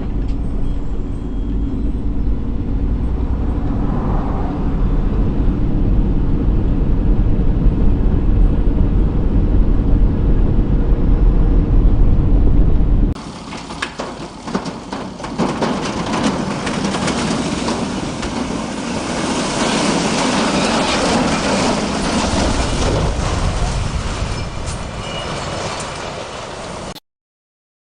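Vehicle driving noise: a heavy low rumble for about the first half. It then cuts suddenly to a steady hiss of road and wind noise, which stops abruptly near the end.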